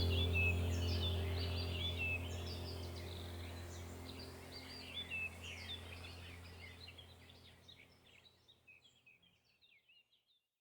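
Many small birds chirping and twittering in overlapping calls over a low steady drone. Everything fades out gradually to silence about eight seconds in.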